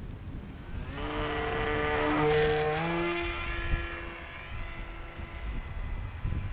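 Model flying wing's motor and propeller whine, swelling about a second in, stepping up in pitch near the middle and then fading away, over low wind rumble on the microphone.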